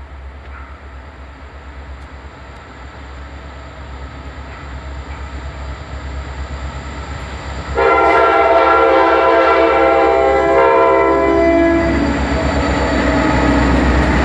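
Norfolk Southern diesel locomotive approaching, its rumble growing steadily louder, then sounding its multi-note air horn about eight seconds in and holding it for about four seconds, the horn's pitch dropping as it passes; the train keeps running loudly afterwards.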